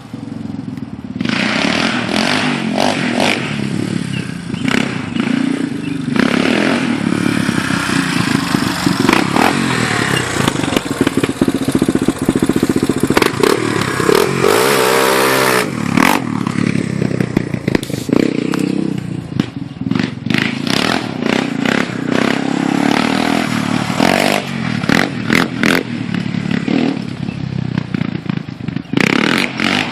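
Yamaha Raptor 350 ATV's single-cylinder four-stroke engine revving up and down as it is ridden hard, the pitch dipping and climbing again about halfway through, with scattered thuds and clatter.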